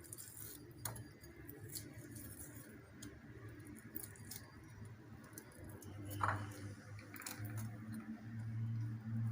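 Leftover deep-fried chicken being shredded by hand: faint, scattered crackles and clicks as the pieces are pulled apart. A low hum comes in about six seconds in.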